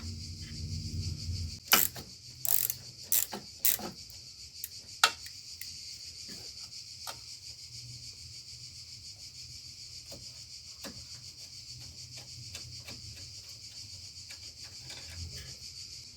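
Hand tools working on bolts, giving a few sharp metallic clicks and knocks in the first five seconds and fainter ticks after, over a steady high chirring of crickets. A low hum stops about two seconds in.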